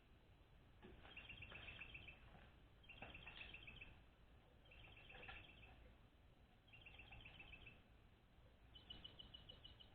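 A bird singing faintly, a short rapid trill of quick notes repeated about every two seconds, five times. A few faint knocks sound underneath.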